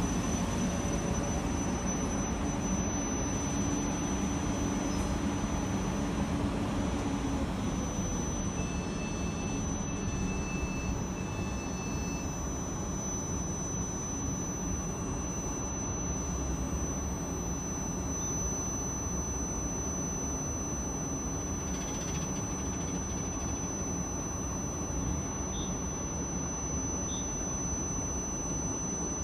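A South Western Railway electric multiple unit running slowly alongside a platform. Its low rumble eases after about eight seconds, and a steady high-pitched tone carries on throughout.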